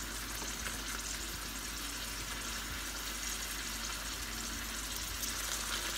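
Sweet potato slices frying in hot oil in a nonstick pan, a steady sizzle, with a few faint clicks of the spatula and fork turning them.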